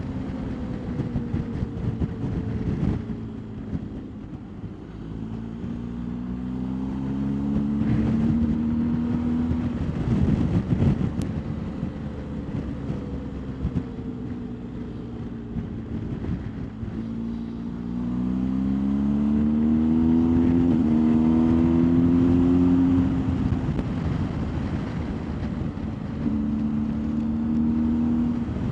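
BMW R1250GS boxer-twin engine on the move, its note rising as it accelerates and dropping back at each gear change, three times over, beneath steady wind and road noise.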